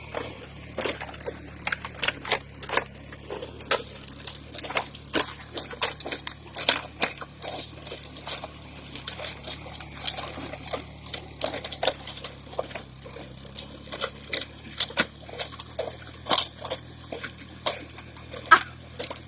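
An irregular run of sharp clicks and clinks, several a second, like small metal pieces knocking together, over a steady low engine hum.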